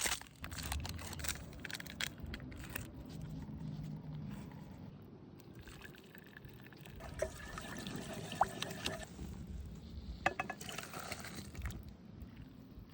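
Liquid being poured and trickling into a cooking pot, with a few short clinks.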